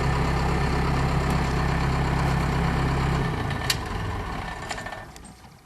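Case 450 skid steer's turbocharged diesel engine idling steadily, then shut off about three seconds in and running down to a stop. A single sharp click comes just after the shutdown.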